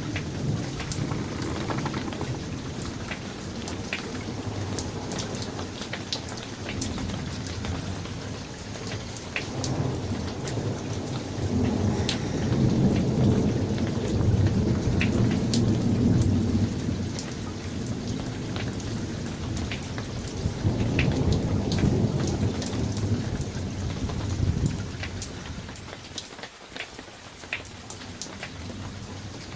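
Steady summer thunderstorm: heavy rain hissing and pattering on surfaces, with individual drops clicking close by, while thunder rumbles in long low swells, loudest in the middle and again a little later.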